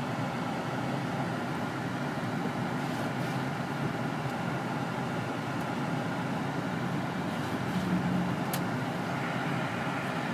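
Car driving at a steady pace, with an even rush of engine and road noise and a low hum. A single short click sounds about eight and a half seconds in.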